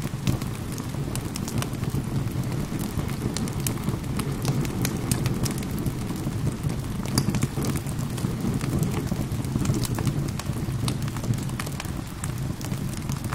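Wood fire crackling with many sharp, irregular pops over a steady low rush of gentle rain.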